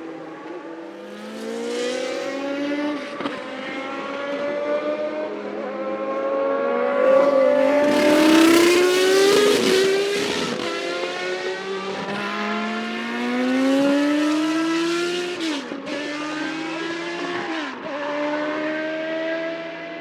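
Classic Formula 1 car engine at high revs, the pitch climbing and then dropping back at each gear change as the car accelerates past. It is loudest about eight to ten seconds in.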